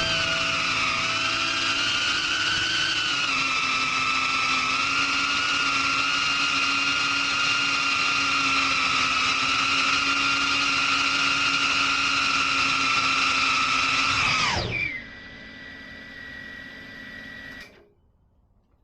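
FPV cinewhoop drone's brushless motors whining at a steady pitch, then spooling down with a steep fall in pitch about 14 seconds in as the throttle is cut. A quieter high tone lasts about three seconds more, then stops suddenly.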